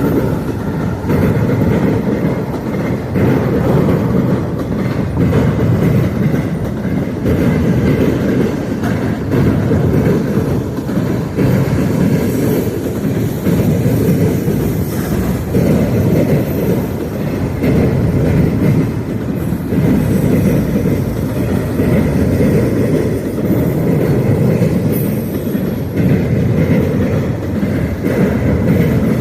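Freight train cars rolling past at close range, with a steady loud rumble and the repeated clatter of wheels over the rails.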